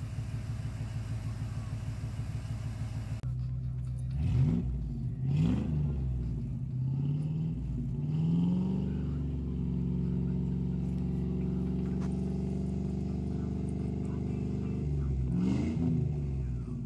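Full-size Ford Bronco engine idling with a steady, even beat, then revved in quick blips, brought up and held at raised revs for several seconds, and blipped again near the end.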